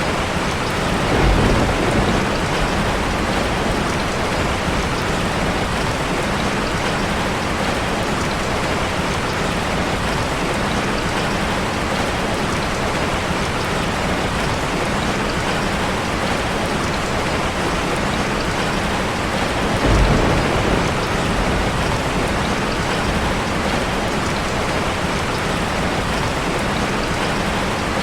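Steady rush of falling water from a waterfall, an even hiss and roar with no letup. Two brief low rumbles rise out of it, about a second in and again about twenty seconds in.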